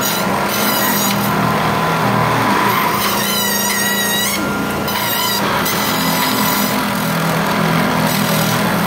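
Running treadmill with a 1:18 scale model car's back tires held against the moving belt, the wheels spinning and the tires rubbing on the belt in a steady whir. A brief high squeal comes about three seconds in.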